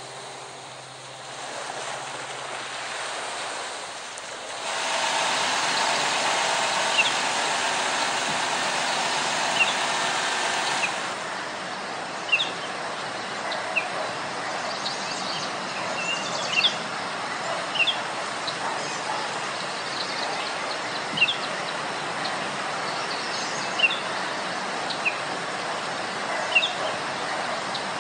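Outdoor nature ambience: a steady rushing noise, louder for several seconds from about five seconds in, with short high bird chirps every second or two through the second half.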